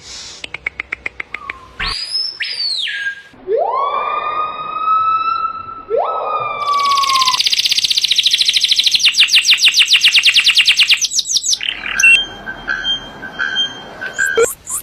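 Calls of several different birds, one after another: a fast run of ticks, a loud whistle, two long whistles that rise and then hold, a long rapid trill, then short repeated notes.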